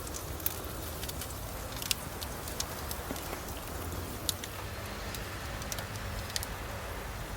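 Wood fire in a fire pit crackling, with sharp pops at irregular intervals over a steady low rumble.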